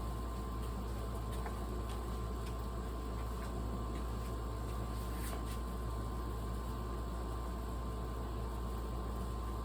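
King of Fans ceiling fan running with a steady motor hum, with a few faint ticks.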